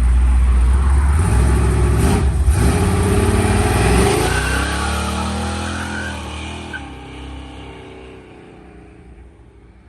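Cadillac's engine revving hard as the car accelerates away, the pitch climbing for the first few seconds, then fading steadily into the distance.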